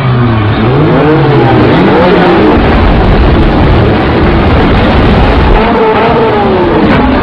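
Car engine revving hard, its pitch climbing and dropping several times as if shifting through gears, like a race car accelerating.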